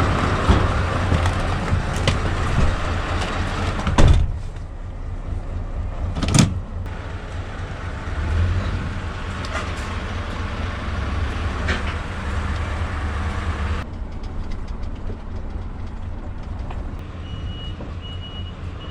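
Scania S650's V8 diesel running steadily, with two sharp knocks about 4 and 6.5 seconds in. Near the end the reversing beeper starts, beeping in an even rhythm as the lorry backs up.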